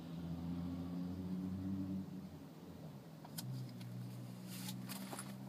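Mini Cooper's four-cylinder engine running steadily, heard from inside the cabin; its note drops to a lower pitch about two to three seconds in. A few light clicks and rustles come near the end.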